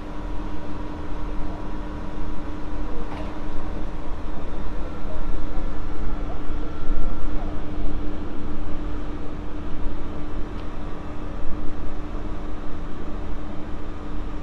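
South Western Railway electric train standing at the platform, giving a steady hum over a heavy low rumble.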